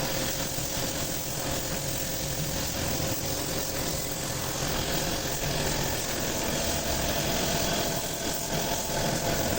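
A motor running steadily, with a constant hum over an even hiss.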